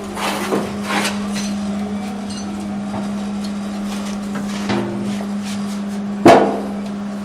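A few sharp metal knocks and clanks from work on the car, the loudest about six seconds in, over a steady low hum.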